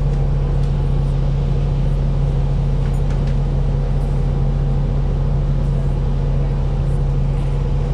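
Steady low drone inside a city transit bus: engine and ventilation running at an even pitch, with a low rumble.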